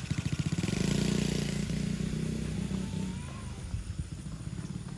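Small motocross bike's engine running under throttle with a rapid even pulse, loudest about a second in and then growing fainter as the bike rides away.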